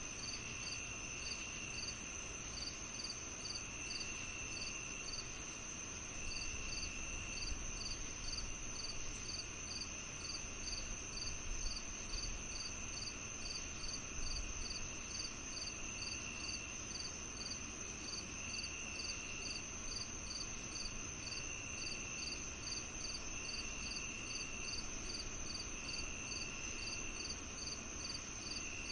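Night insect chorus of crickets: a steady high trill with short chirps repeating about twice a second over it, and a lower trill that comes and goes in second-long spells every couple of seconds, over a faint low rumble.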